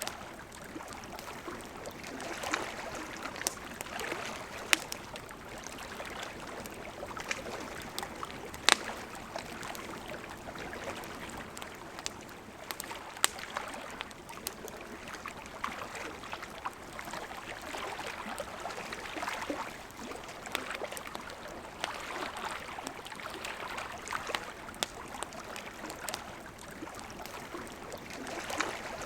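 River water running steadily, with a campfire crackling over it in scattered sharp pops and snaps, a few of them much louder than the rest.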